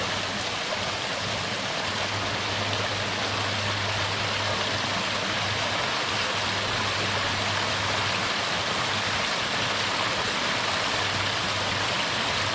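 Steady, unbroken rushing of running water, with a faint low hum underneath.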